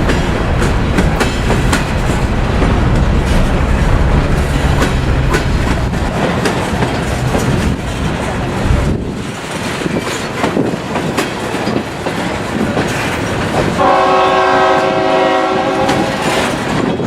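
Freight train passing close by: deep diesel locomotive rumble for the first several seconds, then the clatter and clicks of rail cars rolling over the joints. Near the end, a multi-note train horn sounds for about three seconds.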